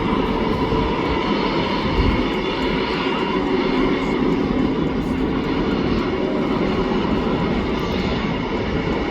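Jet airliner engines running steadily: a loud, even roar with a constant high whine layered over it.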